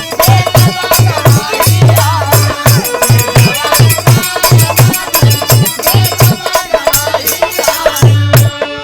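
Instrumental interlude of Bhojpuri birha folk music: a drum beats a fast, steady rhythm under jingling percussion and a melodic line. Near the end the percussion stops, leaving a held chord ringing.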